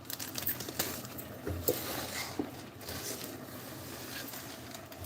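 Scattered light taps, clicks and scrapes of small kitchen items being knocked and shifted about on a counter.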